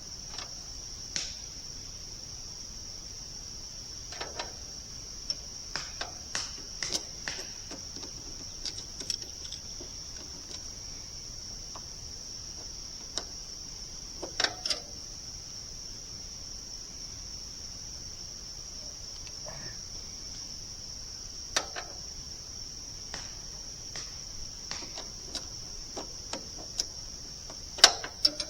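Steady high-pitched chorus of insects, with scattered sharp clicks and knocks, the loudest near the end.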